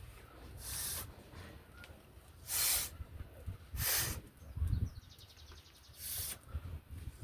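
Four short hissing spurts, each under half a second, with a quick run of faint ticks between the third and the fourth.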